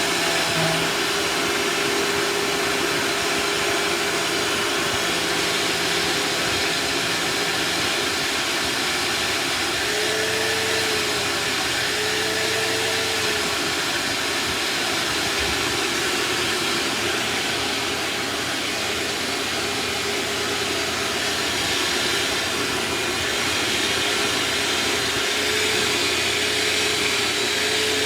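Bagless vacuum cleaner running steadily as it vacuums the floor, its motor tone rising slightly in pitch for a moment about ten and twelve seconds in and again near the end.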